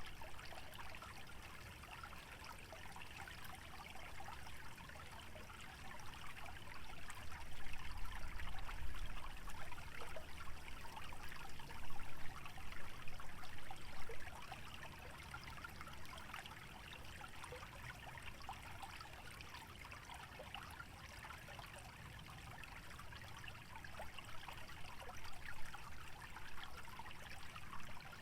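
Small stream trickling and babbling through a wetland, a steady patter of tiny splashes. A low rumble, likely wind, swells for several seconds around the middle, making it louder for a while.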